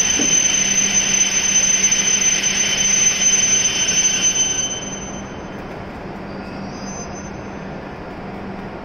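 E7 series Shinkansen train rolling slowly into the platform and braking to a stop, with a steady high-pitched squeal over the rolling noise. The noise and squeal fall away about four and a half seconds in, leaving a quieter steady hum from the standing train.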